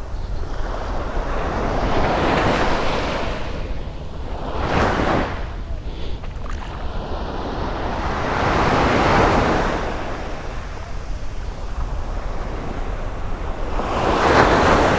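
Sea waves washing onto the shore, swelling and fading about four times, over a steady low rumble of wind on the microphone.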